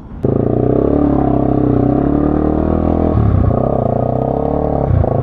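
Motorcycle engine running under load on a dirt trail, starting abruptly a moment in. The engine note drops and picks up again about three seconds in, and once more near the end.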